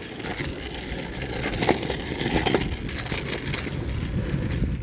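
A bicycle getting under way: tyres rolling and crunching over the ground, with small clicks and knocks and a low rumble that builds over the first second and then holds.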